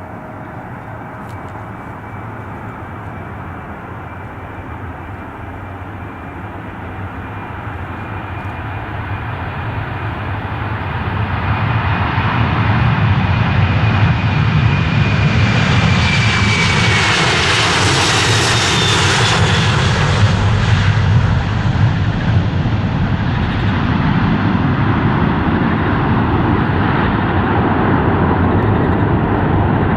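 Airliner passing close by. A rushing engine sound builds up, peaks a little past halfway with a high whine that drops in pitch as it goes by, then trails off into a steady low rumble.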